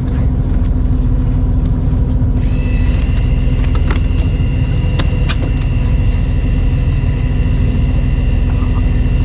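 An engine running steadily with a deep rumble and a few steady tones over it. A set of higher whining tones joins about two and a half seconds in.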